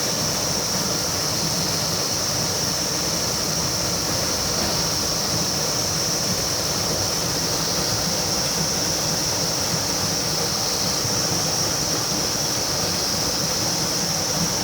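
River water rushing steadily, with a continuous high-pitched insect buzz, such as cicadas, over it.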